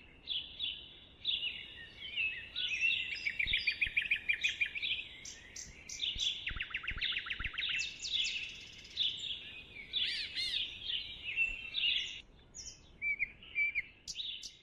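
Songbirds singing, a steady stream of high chirps and whistled phrases, with rapid trills of about ten notes a second several times, notably around a third and half of the way through.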